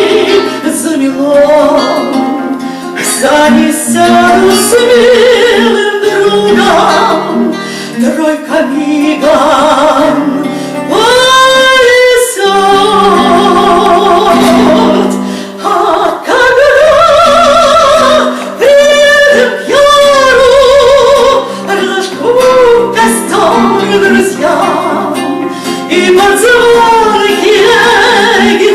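A woman singing a romance in a high voice with wide vibrato over steady instrumental accompaniment.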